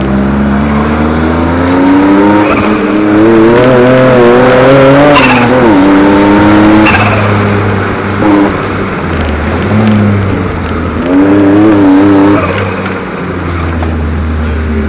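Ford Capri Turbo's engine heard from inside the cabin, revved hard while the car is driven through a cone course: the pitch climbs over the first five seconds, drops sharply, then climbs again from about ten to twelve seconds before easing off.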